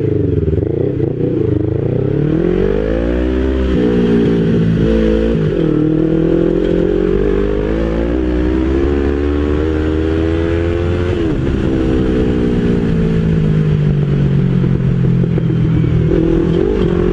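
Motorcycle engine heard from the rider's seat, rising in pitch under acceleration with sudden drops at two gear changes in the first six seconds, then holding steady. It eases off about 11 seconds in, slowly falls in pitch, and picks up again near the end, over constant wind and road noise.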